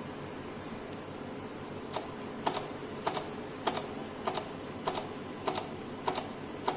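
Buttons on a keypad clicking, pressed about nine times at an even pace of a little under two a second, each press a short double click. The presses start about two seconds in.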